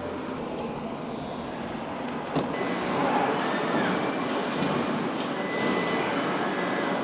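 Truck assembly plant floor noise: a steady mechanical din, with a sharp knock about two and a half seconds in. After the knock it grows louder, and a thin high whine and a few clicks come in.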